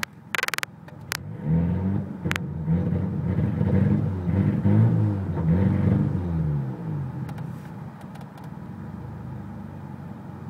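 Turbocharged car engine being revved in several quick blips, its pitch rising and falling over about five seconds before it drops back to idle, with a few sharp clicks near the start. The owner takes the running for a misfire, perhaps from a vacuum leak.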